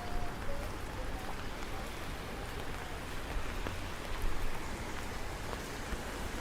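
Steady rain falling, an even continuous hiss with scattered faint drop ticks.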